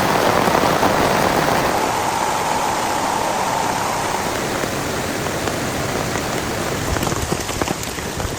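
Heavy rain falling steadily, with a few separate drops ticking sharply near the end.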